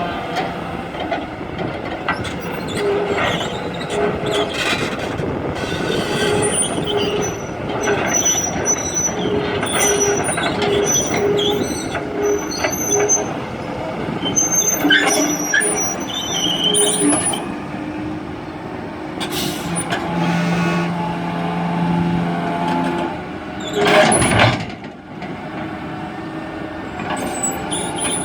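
Heavy machinery running steadily, with repeated high metallic squeaks and clanks, and one short, loud burst of noise about 24 seconds in.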